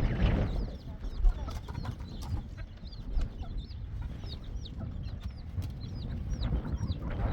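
Birds chirping: many short, high, falling peeps, a few each second, over a low steady rumble.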